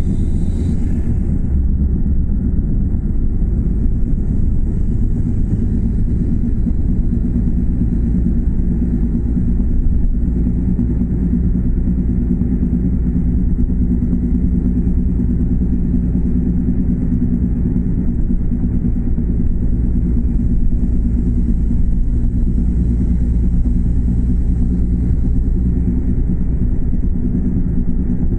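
Daihatsu Move L910S front hub bearing rumbling steadily along with the car's running noise, a continuous low drone: the abnormal noise of a failing front wheel bearing.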